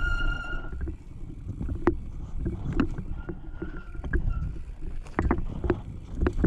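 Bicycle ridden fast down a dry dirt trail: a steady wind rumble on the microphone, with frequent sharp knocks and rattles from the bike over rough ground. A short high squeal sounds near the start and again, fainter, about halfway.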